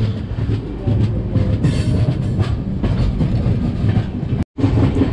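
Passenger train running along the track, heard from an open coach doorway: a steady low rumble with the wheels clicking over the rail joints. The sound breaks off for a moment near the end.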